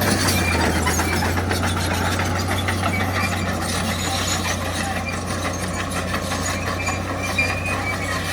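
Diesel engine of heavy earthmoving machinery running steadily, with mechanical clatter and a few short high squeaks.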